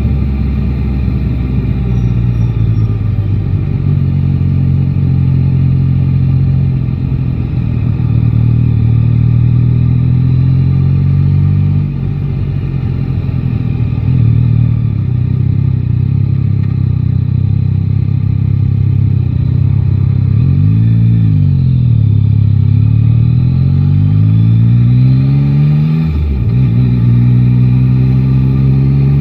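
Three-cylinder motorcycle engine running through city traffic, heard from the rider's seat, mostly at steady low revs. About twenty-one seconds in the revs briefly rise and fall, then climb under acceleration, drop sharply at a gear change about twenty-six seconds in, and climb again.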